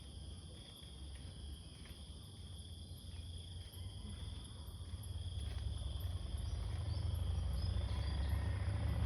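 Steady, high-pitched insect trilling at several constant pitches. A low rumble builds up underneath and grows louder toward the end.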